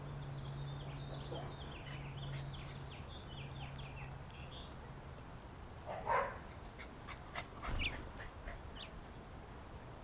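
Small birds at a bird feeder chirping in a quick run of short, falling calls through the first half, over a low steady hum that stops about halfway. A short louder rustling burst comes about six seconds in and another near eight seconds.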